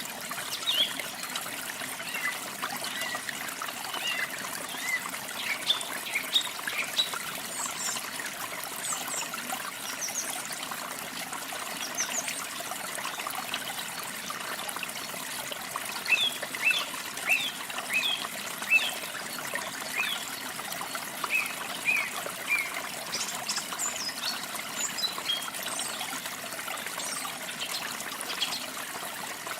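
Small songbirds chirping in quick, scattered calls over a steady trickle of running water. The chirps come in two busy spells, one at the start and one past the middle.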